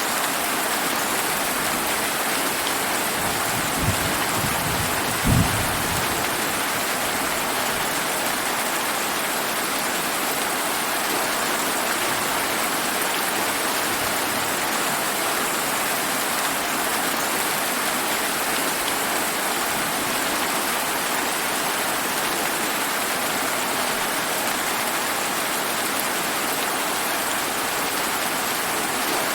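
Steady heavy rain falling, an even hiss that does not let up. Two brief low thumps sound about four and five seconds in, the second louder.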